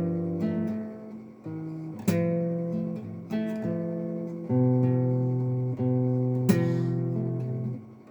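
Acoustic guitar playing strummed chords, each struck and left to ring and fade before the next.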